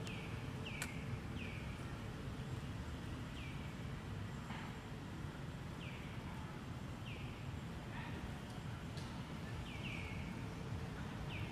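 A bird calling over and over in short, clear falling notes, one or two a second with pauses, over a steady low rumble.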